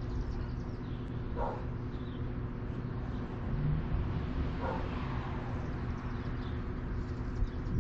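Steady low hum, with two short animal calls, one about a second and a half in and one near five seconds in, and faint high chirps scattered throughout.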